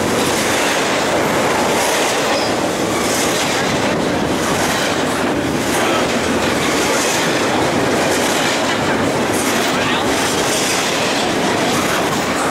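BNSF double-stack intermodal freight train passing close by: a loud, steady noise of steel wheels running on the rails and the stacked container well cars rattling past.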